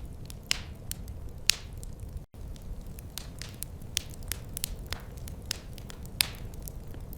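Wood fire crackling: irregular sharp pops and snaps, a few louder than the rest, over a low steady rumble. The sound briefly cuts out a little over two seconds in.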